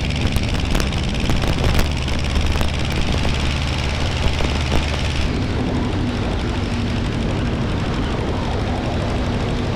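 Aeronca 7AC Champ's engine and propeller running steadily in flight, heard from inside the small cabin. About five seconds in the sound shifts: the hiss drops back and a steady hum comes in.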